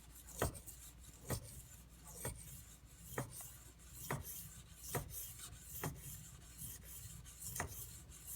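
Knife blade being stroked by hand across a 320-grit whetstone: a gritty scrape repeating about once a second, each stroke marked by a sharp tap. The stroking is convexing and thinning the blade's edge bevel.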